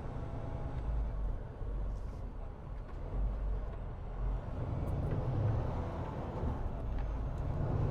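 Semi truck cab on the move: a steady low rumble of diesel engine and road noise that swells and eases a few times.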